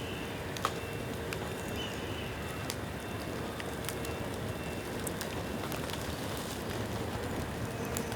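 Bamboo bonfire burning with a steady crackle and hiss, broken by scattered sharp pops; one loud pop comes about half a second in.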